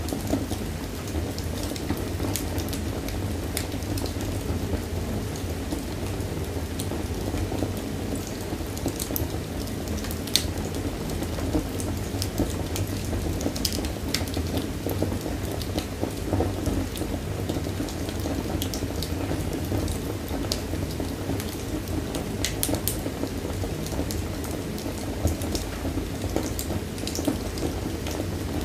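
Wood fire burning in a fireplace: a steady low rush of flame with scattered sharp crackles and pops.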